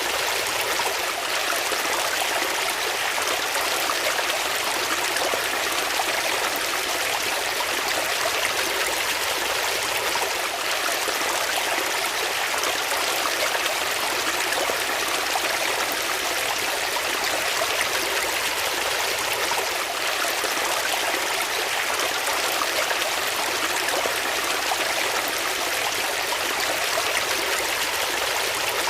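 Flowing water: a steady, even rush like a stream or small waterfall, unchanging throughout.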